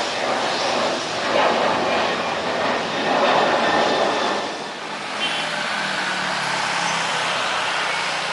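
Jet airliner engine noise: a loud, even rush that swells and falls, easing about four and a half seconds in to a steadier low hum.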